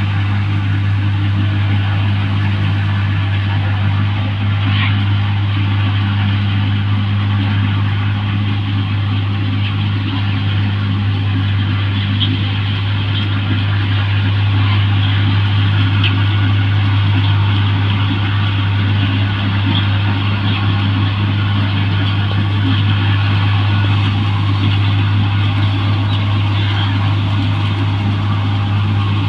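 New Holland 1545 combine harvester running steadily, its engine giving a strong, unchanging low hum.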